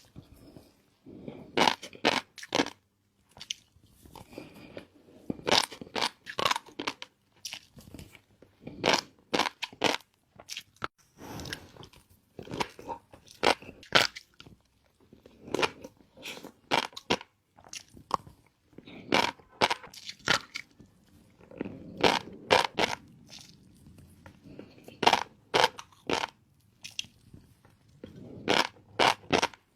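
Close-miked chewing of shrimp in fish roe sauce: repeated bursts of crunching, with short pauses between mouthfuls.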